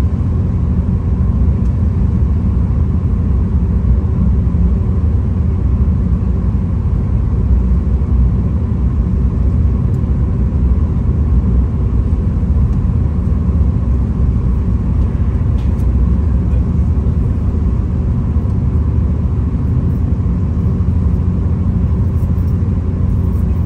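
V/Line VLocity diesel railcar running, heard from inside the carriage: a steady low rumble with an even hum that holds throughout.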